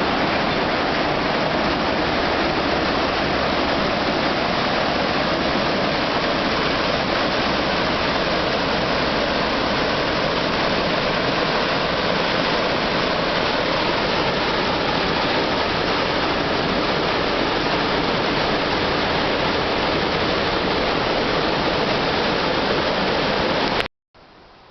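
Spring water pouring over the rocks of a small waterfall at the Mount Shasta Head Spring, a steady rush of falling water that cuts off suddenly near the end.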